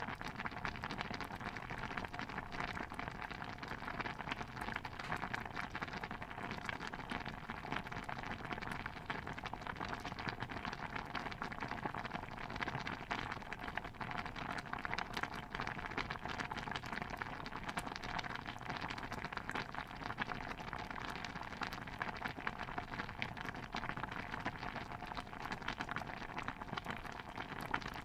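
Stew bubbling in a cauldron: a steady, dense patter of small pops and plops that does not let up.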